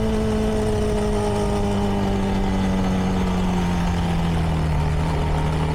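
CFMoto 300NK's single-cylinder engine running on the stock exhaust, its pitch falling slowly and steadily as the bike rolls off the throttle and slows.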